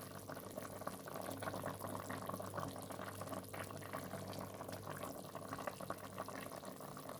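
Meat stew simmering in a covered cooking pot, a steady bubbling with many small crackles.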